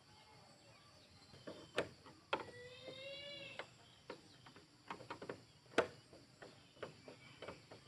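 Scattered sharp knocks and clicks, with a single pitched call about a second long a little over two seconds in.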